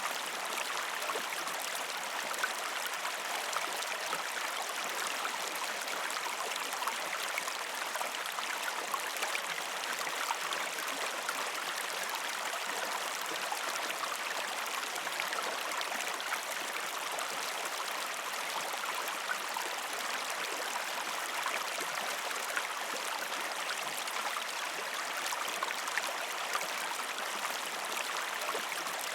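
Shallow river stream flowing over rocks: a steady rushing babble of water, flecked with many small splashes and trickles.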